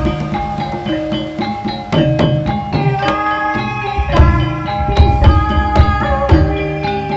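Live jaran kepang (ebeg) dance music: hand drums beating a quick rhythm under a melody of struck, ringing pitched notes, with heavier low drum strokes about four seconds in.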